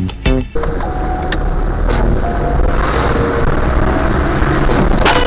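Steady car road and engine noise heard from inside the cabin on a dashcam recording, with a few faint clicks; music cuts off abruptly about half a second in.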